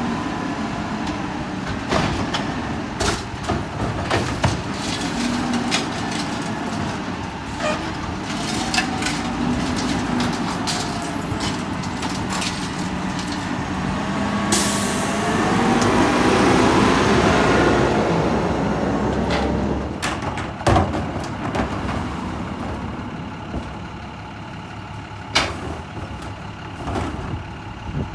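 Garbage truck at work: diesel engine running with repeated clanks and knocks, a sudden hiss of air from the brakes about halfway through, and the engine revving louder for a few seconds after it.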